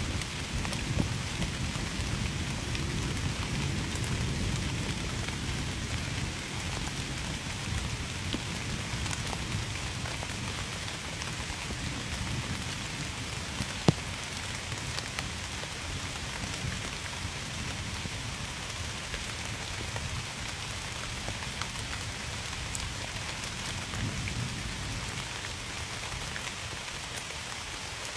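Steady rain falling on a surface, with a low rumble of thunder that fades away over the first half. A single sharp tick stands out about fourteen seconds in.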